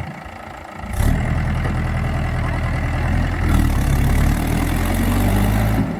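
Mahindra tractor's diesel engine running, turning much louder about a second in and then holding steady, dipping briefly just before the end.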